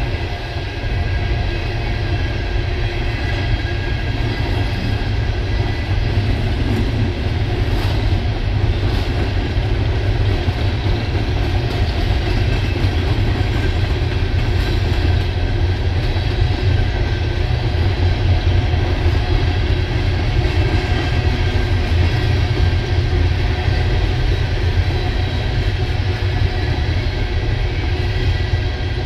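An empty coal train's hopper and gondola cars rolling past, a steady low rumble and rattle of steel wheels on the rails.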